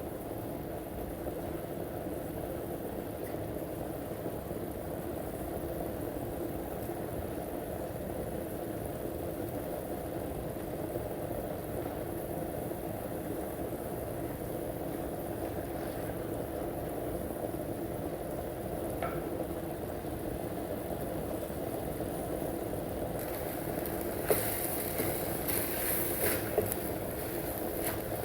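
Pot of pepper soup boiling on the stove: a steady bubbling rush. Near the end a brighter hiss and a few sharp clicks join in.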